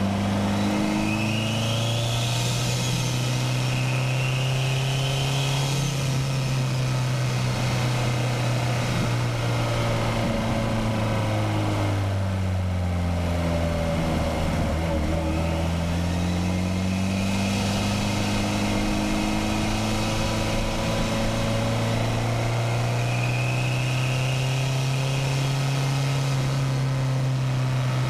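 Turbocharged Nissan SR20DET inline-four in a Miata under way on a twisty road, its engine note steady and then dropping and rising again with the throttle through the bends. A high whine rises and falls a few times over it.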